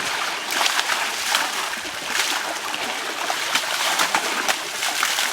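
Water splashing again and again as people wash an elephant in a river, over a steady rush of water.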